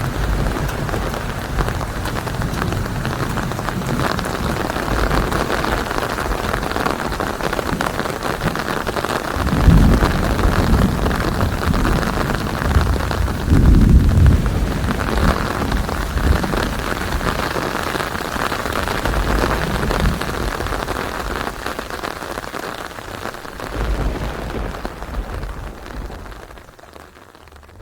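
Steady heavy rain with rolling thunder, two low rumbles standing out about ten and fourteen seconds in; the whole storm fades down near the end.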